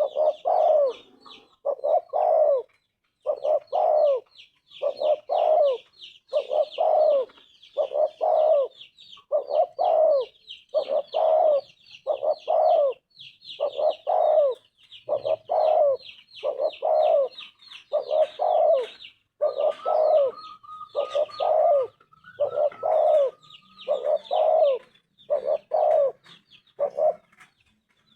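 Spotted dove cooing: a low two-part coo repeated about every one and a half seconds. A fast, high trilling runs steadily behind it, and a brief steady whistle-like tone sounds about two-thirds of the way through.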